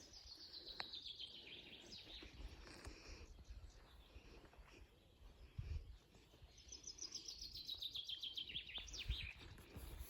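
Faint birdsong: a songbird sings a descending phrase of quick high notes near the start and again about six seconds later, over a low background rumble.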